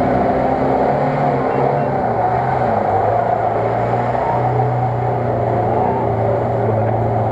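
UAZ-469 off-roader's engine working hard as it drives through deep mud. Its pitch rises briefly about a second in, then holds steady.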